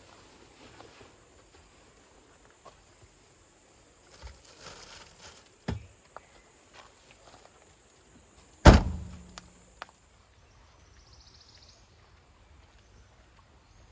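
A few soft knocks and rustles, then one loud, sharp thump about two-thirds of the way in, with a brief low ring after it. Under them runs a steady high hiss that stops shortly after the thump.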